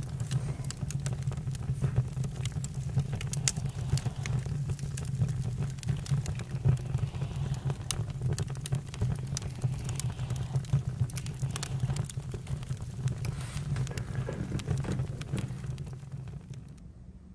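Campfire burning with a steady low rumble and frequent sharp crackles and pops of burning wood. The sound drops away shortly before the end.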